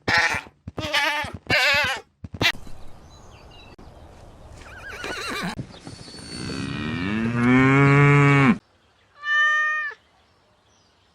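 A cow mooing: one long call lasting over two seconds that cuts off suddenly about two-thirds of the way in. Before it come several short, wavering animal calls, and one short higher call follows.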